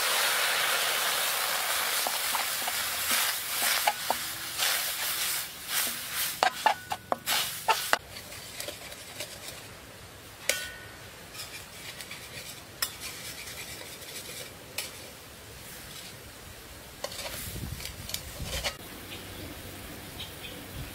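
Garlic and spice paste sizzling in a hot metal pan just after liquid has been poured in, while a utensil stirs and clicks against the pan. The sizzle dies down after about eight seconds, leaving a faint hiss and occasional clicks of the utensil.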